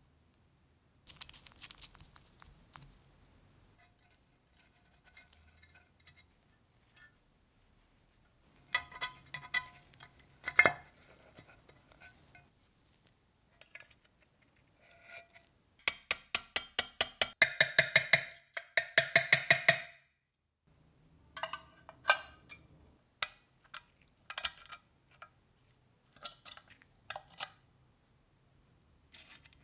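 Small metal parts clinking and clicking as they are handled and fitted, with scattered sharp clicks. About halfway through comes a fast, even run of clicks lasting about four seconds.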